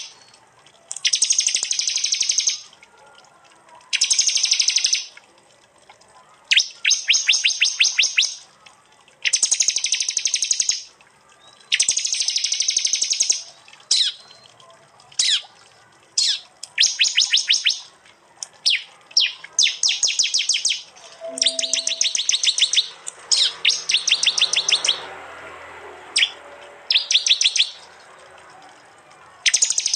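Prinias (prenjak) singing: loud bursts of rapid, high, buzzing trills, each about a second long, repeated every two seconds or so.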